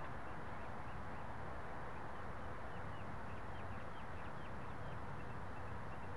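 Steady background hiss with faint, quick bird chirps, a run of short notes from about two to five seconds in.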